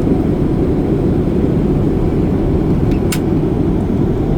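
Airliner cabin noise in flight: a steady, loud, low rumble from the engines and airflow, with one brief click about three seconds in.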